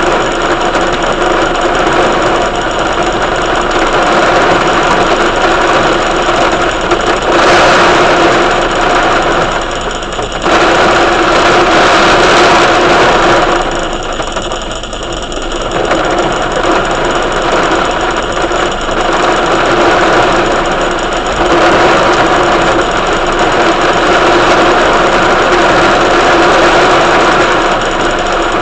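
Heavy thunderstorm rain pouring steadily, easing off briefly twice, with a steady low hum underneath.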